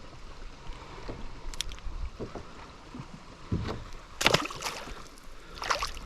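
Small water splashes and knocks around a fishing kayak, with three brief splashing bursts about a second and a half, four seconds and nearly six seconds in.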